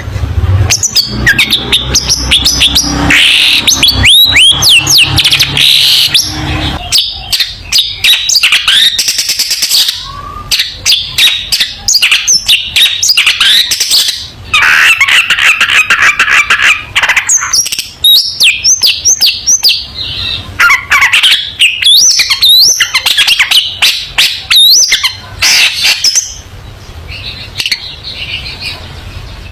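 Long-tailed shrike singing loudly: a fast, varied run of harsh chattering and clicks mixed with quick whistled notes that slide up and down, with a buzzy rattling trill about halfway through.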